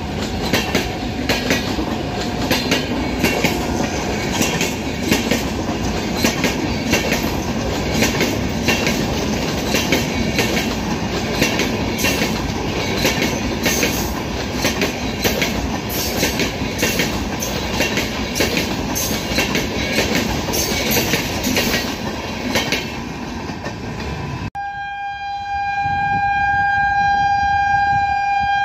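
Passenger train running past at speed: heavy rumble of the coaches with a rapid, uneven clatter of wheels over rail joints. About 24 seconds in the sound cuts abruptly to a steady locomotive horn blast on one held note.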